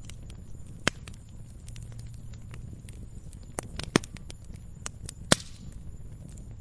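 Wood campfire crackling: irregular sharp pops and snaps, the loudest about a second in, near four seconds and just past five seconds, over a low steady rush of the flames.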